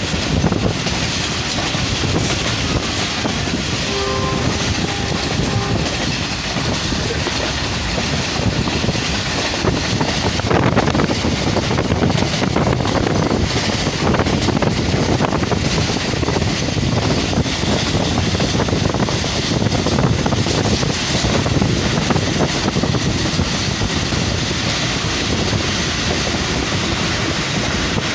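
Passenger train coach running at speed, heard at an open carriage window: steady rumble and clickety-clack of the wheels on the rails, with air rushing past. A horn sounds briefly about four seconds in.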